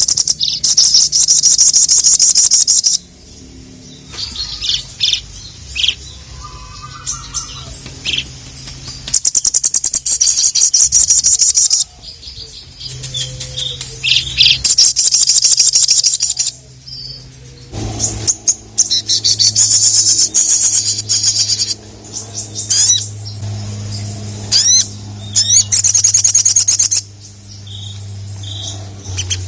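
Sogon (sogok ontong) songbird singing in loud, high, rapid rattling bursts of a second to three seconds each, again and again, with short quieter gaps between. A steady low hum runs underneath.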